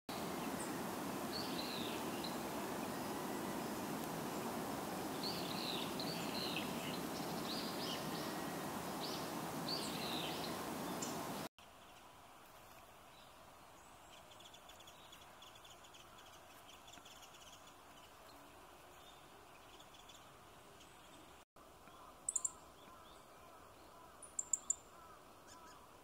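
Outdoor ambience of small birds calling: a steady hiss with a series of short, thin, high calls through the first half, then a sudden drop to a much quieter background. Near the end come a few sharp, very high chips.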